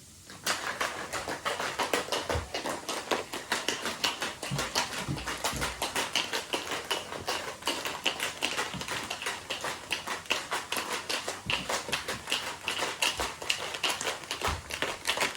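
A protein shake being mixed by hand: rapid, steady clicking and knocking, about four or five strokes a second, starting about half a second in.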